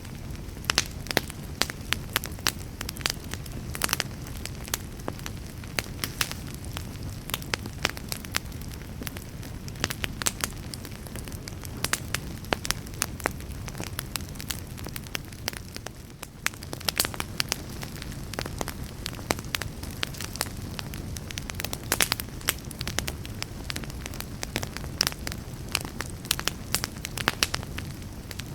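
Wood fire burning in a fireplace: a low steady rush of flames with frequent sharp, irregular crackles and pops.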